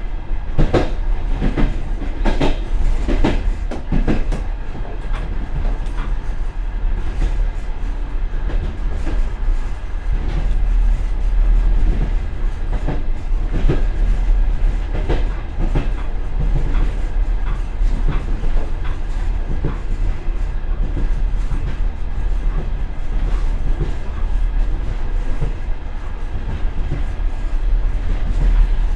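Passenger train running at speed, heard from the rear vestibule of its last car: a steady low rumble with clusters of wheel clacks over rail joints, thickest in the first few seconds and again about halfway through.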